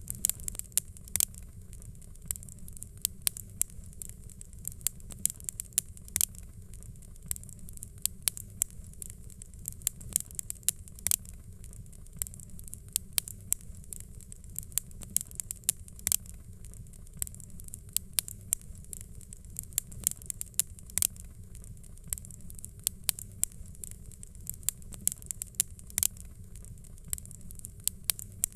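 Fireplace fire crackling: frequent sharp pops and snaps at irregular intervals over a low, steady rumble.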